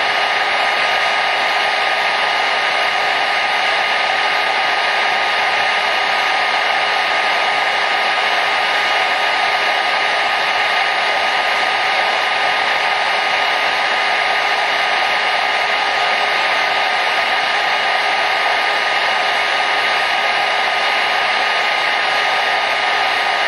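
Hair dryer running steadily: an even, unbroken rush of air with a faint steady whine from its motor.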